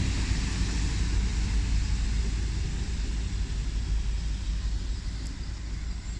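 Class 800 train, unit 800 036, running with a steady low rumble from its underfloor diesel engines as it moves off toward the sidings. The rumble eases slightly near the end.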